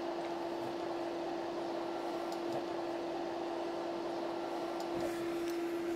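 Crumbed chicken pieces shallow-frying in oil in a non-stick pan: a quiet, steady sizzle with a few faint pops, over a steady hum.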